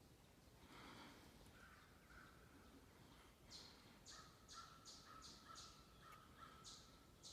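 Faint bird calls in woodland: a thin, steady call, then about halfway in a quick run of six or seven short, high, harsh calls, about three a second.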